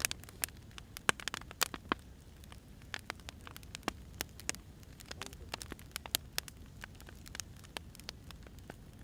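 Firewood burning, crackling with irregular sharp pops over a low steady rumble.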